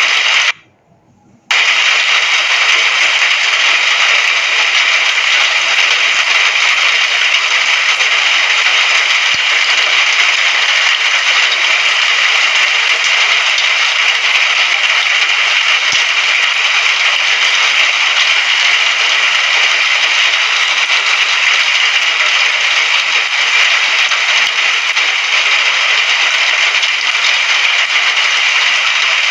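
Steady heavy rain, a dense crackling hiss, that cuts out to near silence for about a second near the start and then comes straight back at full level.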